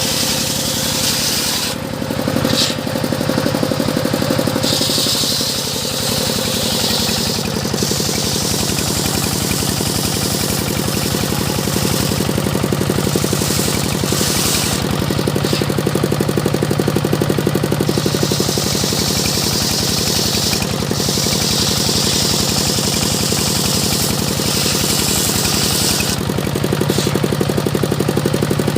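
Engine-driven circular saw at a sawmill running steadily while cutting teak. The low, even hum of the engine goes on throughout, under a bright hissing cut that comes and goes every few seconds.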